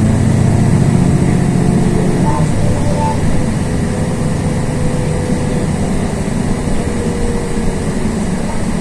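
Inside a LiAZ 6213.22 articulated city bus on the move: the steady drone of the engine and road noise, with the engine note shifting about two seconds in.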